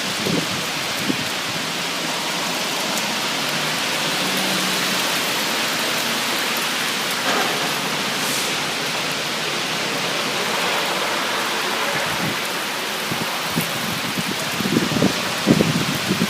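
Heavy storm rain as a steady, dense hiss, with irregular low thumps coming in near the end.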